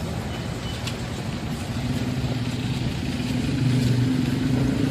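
A motor vehicle's engine running close by, getting louder partway through.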